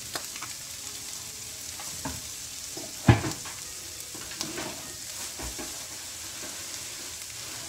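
Beyond Beef crumbles and vegetables sizzling steadily in a stainless steel skillet over fairly high heat. A few small clicks and one sharp knock about three seconds in, the loudest sound.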